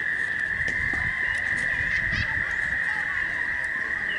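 A continuous chorus of frogs trilling as one steady high drone, with a few short bird chirps above it and some low handling thumps.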